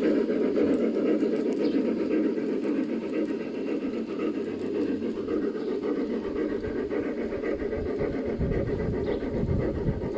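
G scale model train running on garden railroad track: a steady hum of motor, gears and wheels, with a deeper rumble building near the end as it comes closer.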